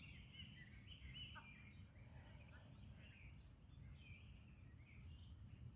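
Faint birdsong: several birds chirping and warbling in short phrases, over a low steady outdoor rumble.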